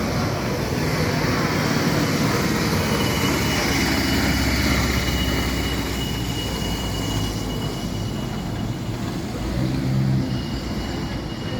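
Steady rumble of vehicle noise with a continuous hiss above it, and a thin, steady high whine that comes in about three seconds in, fades out past the middle and returns near the end.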